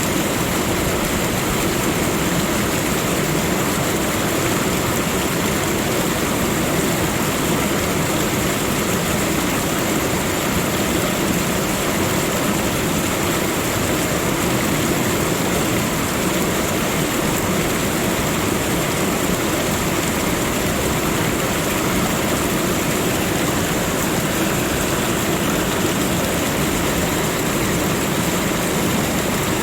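Steady, unbroken rushing of running water, with a thin steady high hiss on top.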